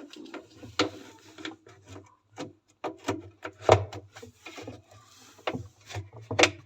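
Plastic lint filter parts for a Haier top-load washing machine being handled and pressed together: irregular clicks, knocks and rubbing, the loudest knock about halfway through and another near the end.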